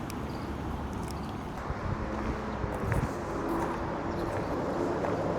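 Steady outdoor background noise: a low rumble under a wash of sound, with scattered small clicks and knocks, a little louder after about two seconds.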